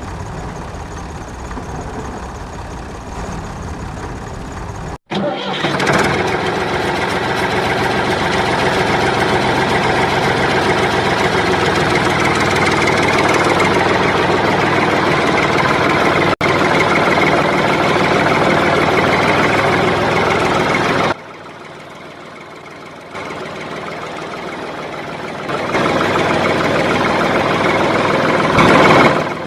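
Tractor engine running in several spliced clips. It is quieter at first, then much louder from about five seconds in, and the level jumps up and down abruptly where clips are joined.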